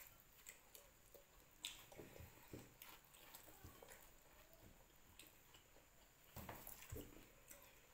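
Faint chewing and mouth sounds of people eating fried tofu, with a few soft scattered clicks and a slightly louder cluster near the end.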